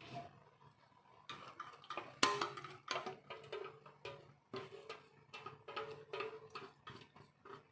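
Kitchen utensils clinking and tapping against pots and dishes: a quick, irregular series of clicks and knocks, several of them ringing briefly.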